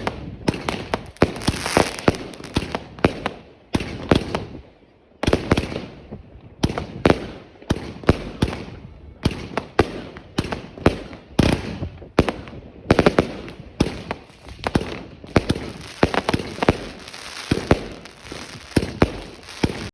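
Evolution Fireworks Dragon Box 1 firework battery firing, a long irregular string of sharp bangs and crackling reports. There is a short lull about four seconds in, then the shots pick up again and run on in quick succession.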